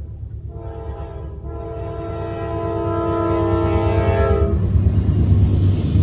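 Diesel freight locomotive's air horn sounding a short blast and then a long one, the chord dropping in pitch as the lead engine passes. Under it, the heavy rumble of several diesel locomotives grows louder as the horn stops.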